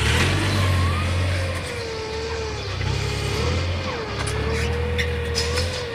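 A motor vehicle engine running, its low rumble swelling and easing, with a whine that wavers slowly up and down in pitch.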